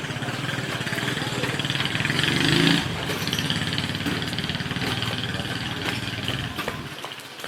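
A small engine running, loudest about two and a half seconds in and fading away near the end.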